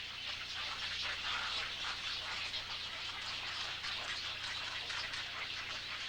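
Many birds calling at once in a crowded nesting colony of wading birds: a dense, steady, high chatter of overlapping short calls.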